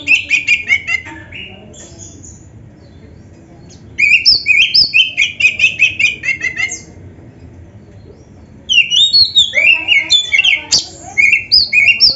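Oriental magpie-robin (kacer) singing: fast runs of high whistled and chattering notes in three bursts with short pauses between. The second burst starts about four seconds in and the third near nine seconds.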